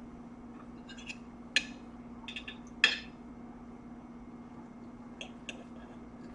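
Eating at a table: a few short, sharp clicks and clinks, the two loudest about one and a half and three seconds in, with fainter ones later, over a steady low hum.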